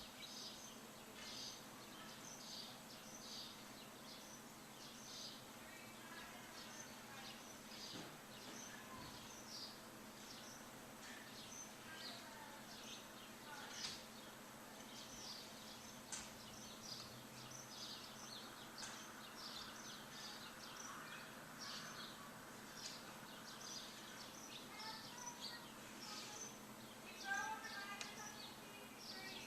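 Songbirds chirping faintly: many short, high, repeated chirps over a steady low hum of background noise, with a louder cluster of lower chirps near the end.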